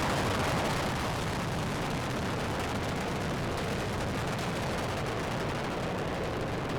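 Space shuttle's solid rocket boosters and main engines during ascent after liftoff: a steady, crackling rumble.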